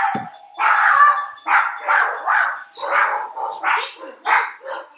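A dog barking repeatedly, about ten sharp barks in quick succession, right after a doorbell rings. The tail of the doorbell's chime fades out under the first bark.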